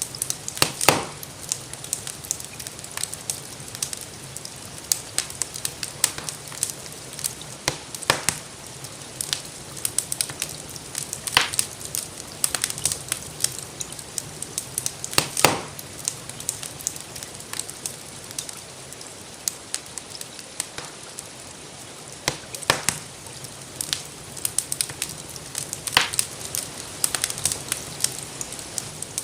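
Wood fire crackling in a fireplace: irregular sharp pops and snaps, a few louder ones, over a soft steady hiss of gentle rain.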